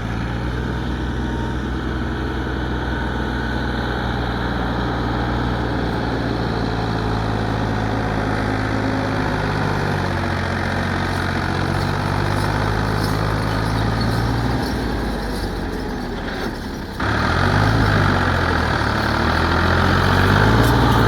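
Tractor diesel engine running steadily. About 17 seconds in, the sound jumps to a louder passage where the engine's pitch rises and falls.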